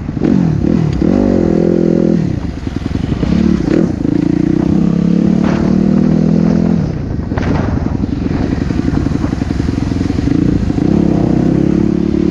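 Dirt bike engine revving hard, its pitch climbing and then dropping sharply at gear changes or when the throttle is backed off, twice. A few sharp clatters sound over it.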